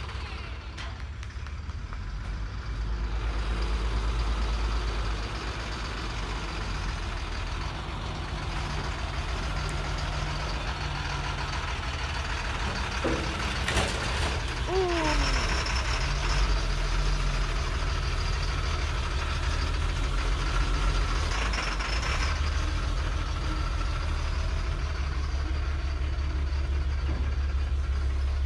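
Heavy truck engine running steadily at low speed, growing a little louder a few seconds in, with a couple of short falling squeals about halfway through.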